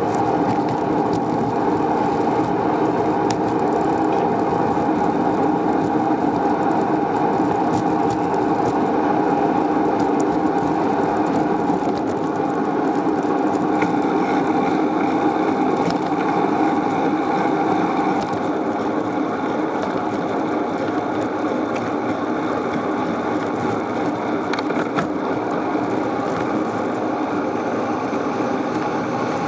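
Steady whirring, rushing noise of a bicycle being ridden on pavement. It eases slightly about two-thirds of the way through.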